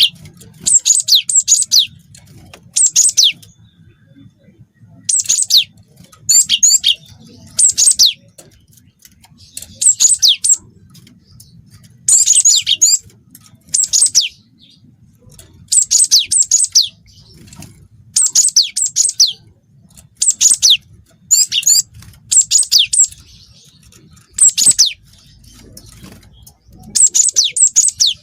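Cinereous tit (glatik watu) singing in short bursts of rapid high chirps and trills, one phrase every second or two. Its song is filled with phrases learned from canaries.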